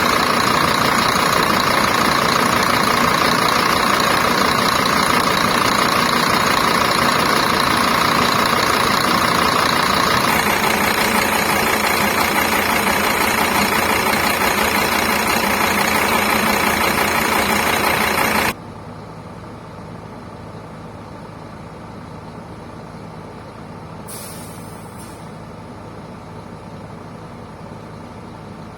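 Scania K310 coach's diesel engine running loud and steady, then dropping suddenly to a much quieter steady idle about two-thirds of the way through. A short hiss of air comes a few seconds after the drop.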